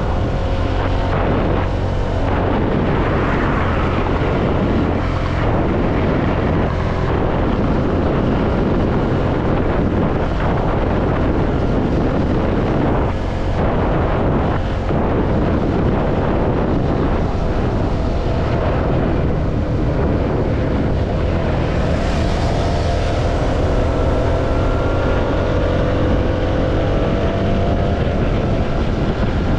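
CFMoto motorcycle under way, its engine running beneath heavy wind rush on the microphone. The engine note climbs steadily in pitch through the second half as the bike accelerates.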